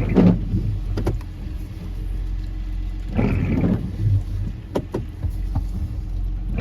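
Car engine idling, heard from inside the cabin as a steady low hum, with two short rushing swells about three seconds apart and a few faint clicks.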